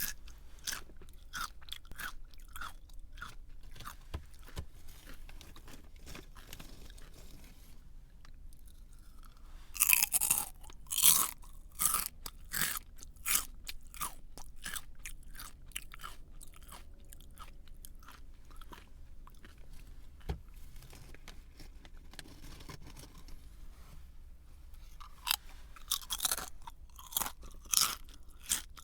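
Crunchy snack being chewed: a steady run of crisp crunches, with louder, sharper bites about ten seconds in and again near the end.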